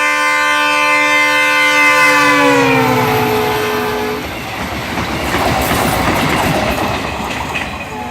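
Diesel locomotive hauling a Talgo train sounding a loud multi-note horn as it approaches at speed; the horn's pitch drops as the locomotive passes, and the horn stops about four seconds in. Then comes the rush and clatter of the coaches going by.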